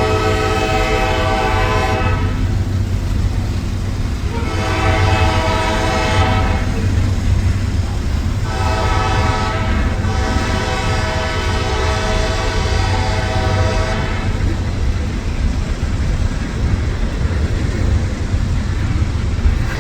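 Train horn sounding the grade-crossing signal: a long blast ending about two seconds in, another long blast, a short one, then a final long one, over the steady rumble of the train. The horn stops about fourteen seconds in and the train's rumble carries on.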